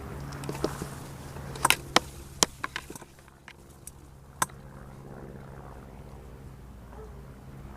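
A handful of sharp clicks and knocks, clustered in the first half, over a steady low hum.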